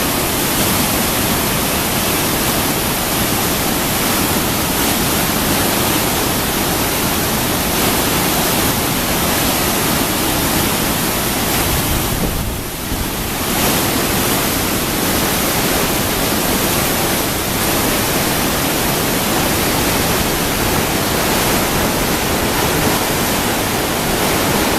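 Whitewater of a mountain creek rapid and waterfall rushing steadily, with a brief dip in loudness about halfway through.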